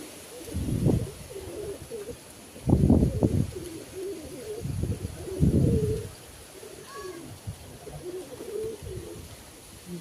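Domestic pigeons cooing repeatedly in low, wavering notes, broken by three louder, low rushes of noise: about a second in, around three seconds in and just before six seconds.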